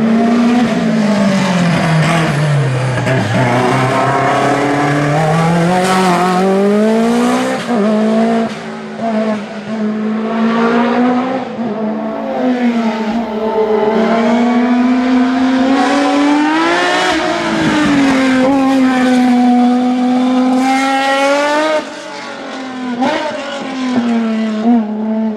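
Racing car engine at high revs, its pitch rising under acceleration and dropping sharply at gear changes and braking, over and over. The note sinks low during a long slowdown at the start and climbs high again around the middle.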